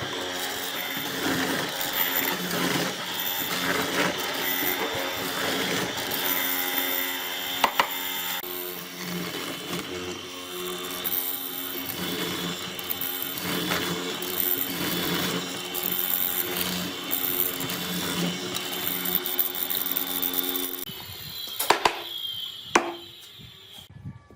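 An electric power tool running steadily, then switching off a few seconds before the end, followed by a couple of sharp knocks.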